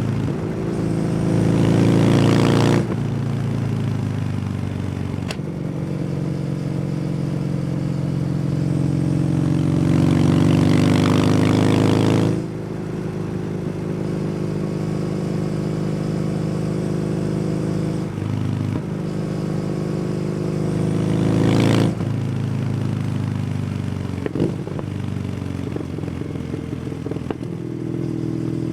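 Kawasaki W800's air-cooled parallel-twin engine through an SC Project exhaust, riding on the road: the engine pulls harder three times, each pull cut off suddenly by a shift or closing the throttle, with steady cruising between. A few sharp crackles come near the end.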